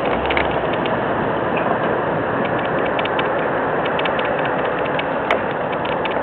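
Vehicle running steadily under a fast, continuous rattle of metallic clicks, with one sharper click about five seconds in.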